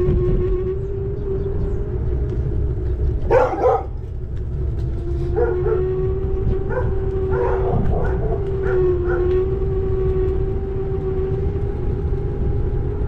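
Electric scooter motor whining at a steady pitch over low wind and road rumble, while a dog barks several times from about three seconds in.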